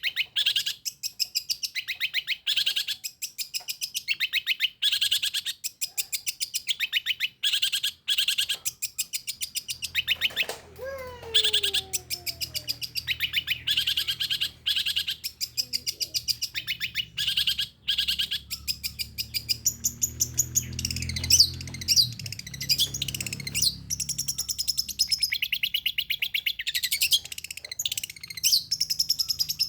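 Long-tailed shrike (pentet) singing rapid 'tembakan' runs: bursts of fast, sharply repeated high notes, with more varied rising and falling phrases about two-thirds of the way in.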